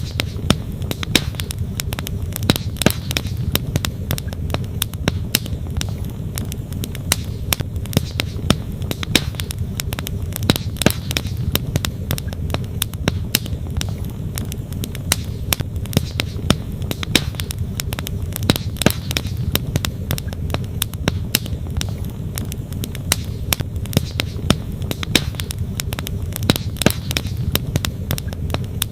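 Wood campfire crackling, with frequent sharp pops and snaps of burning logs, over the steady low rush of a flowing stream.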